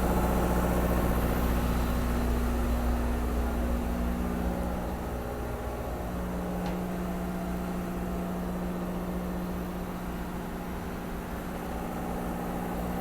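Northern Lights diesel generator running in an engine room, a loud, steady hum with a constant low drone and a few fixed tones. It eases slightly in loudness through the middle.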